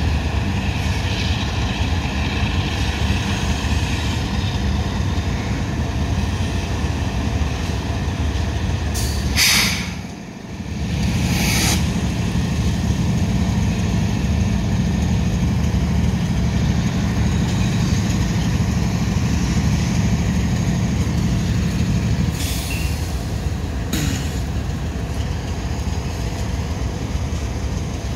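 CSX diesel locomotives hauling a loaded coal train, running with a steady low engine drone and rolling train noise. The sound dips briefly about ten seconds in, with a short sharp noise just before and just after.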